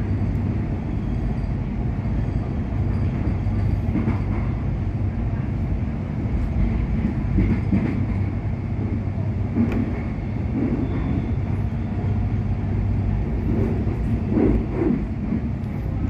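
Melbourne suburban electric train running along the line, heard from inside the carriage: a steady low hum over the rumble of wheels on rail. A few brief clicks and jolts come through, and the rumble swells a few times.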